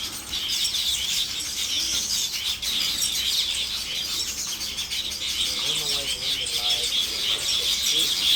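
Village weaver colony chattering: a dense, continuous mass of high, rapid chirps and chips from many birds at once.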